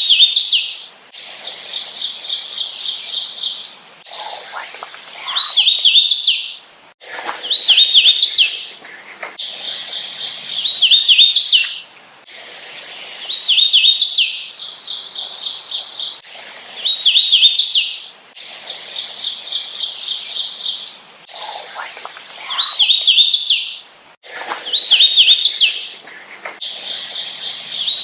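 Hooded warbler singing over and over: clear, slurred whistled phrases, each ending in an emphatic upward-jumping note, repeated every two to three seconds.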